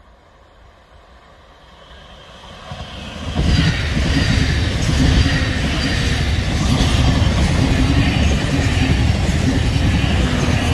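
Thameslink Class 700 electric multiple unit passing close by on the rails. The wheel and rail noise builds as the train approaches, then stays loud for about seven seconds as the carriages go past, easing off only at the very end.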